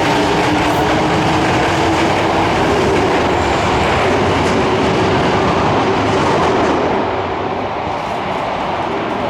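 Subway train running out of an underground station platform: a steady rumble of wheels on rail with a motor hum rising slightly in pitch. The sound eases off about seven seconds in.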